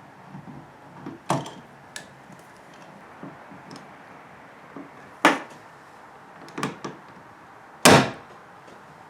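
Hand rivet tool setting kayak rivets around a flush-mount rod holder: a few sharp clicks and snaps several seconds apart, the loudest near the end.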